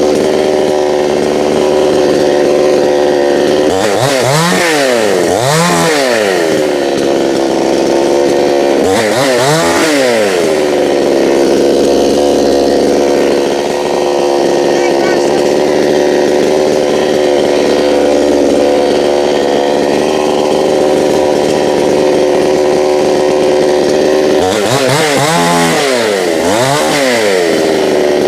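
Chainsaw running at high revs while cutting up a fallen apple tree limb. Its engine note dips and climbs back again five times: twice about four seconds in, once around ten seconds, and twice near the end.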